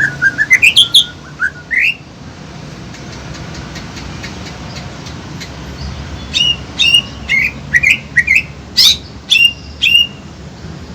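Songbirds singing in quick runs of short, sharp rising chirps, in one burst over the first two seconds and another from about six seconds in, with a quieter gap between.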